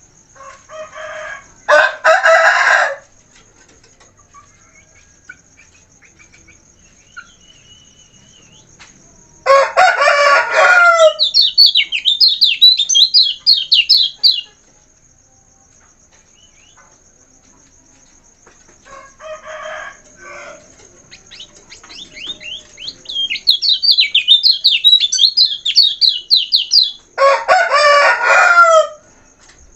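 Kecial kuning songbird singing long runs of rapid, high twittering trills, broken by four loud, harsh calls of about a second and a half each, over a steady high thin whine like an insect.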